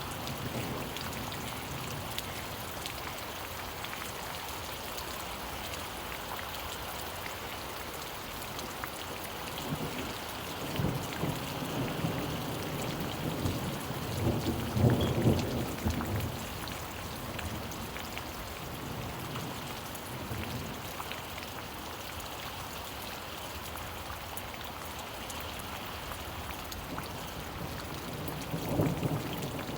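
Steady rain falling, with low rolls of thunder: a long one building from about a third of the way in and loudest around halfway, and another near the end.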